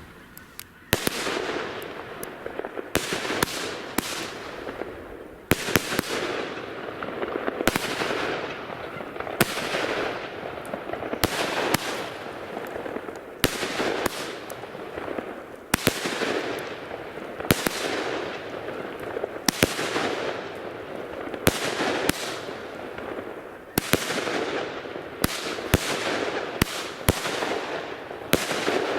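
WECO Poison consumer firework battery firing shot after shot, about one every two seconds. Each shot is a sharp crack followed by a fizzing, noisy tail lasting about a second and a half.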